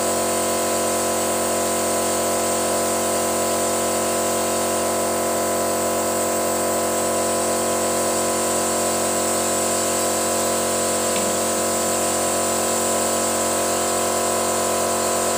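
A machine running at constant speed: a steady hum made of several held tones under a constant hiss, with no change in pitch or level.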